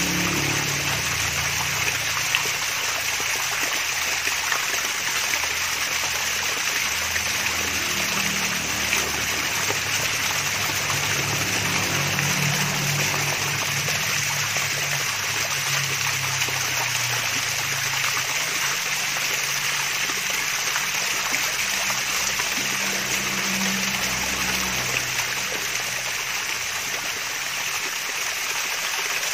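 Water trickling and splashing steadily down a small waterfall, a constant even rush with fine splashes. A faint low hum comes and goes underneath.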